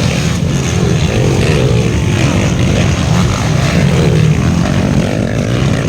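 Motocross bike engines running during a race: a loud, steady drone with faint rising and falling revs over it.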